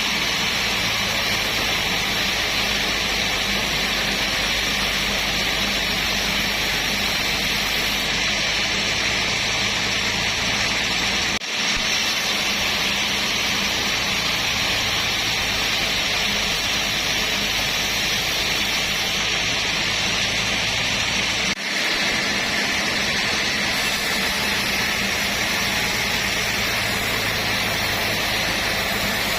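Sawmill machinery running steadily: a motor hum under a loud, even hiss, with two brief drops in level about eleven and twenty-two seconds in.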